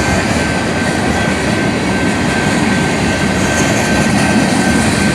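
Freight train rolling past: a steady, loud rumble of wheels on rails, with a thin, steady high-pitched whine over it.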